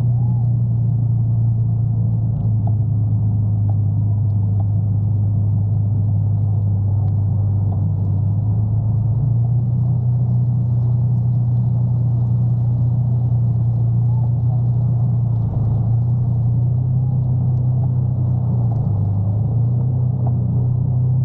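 Motorcycle engine running steadily at low speed, its pitch shifting slightly up and down a few times.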